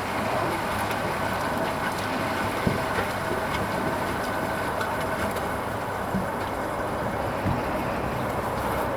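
Hoover Vision HVP16 washing machine running steadily partway through its Silks programme, with a faint steady tone over the noise and a few light knocks.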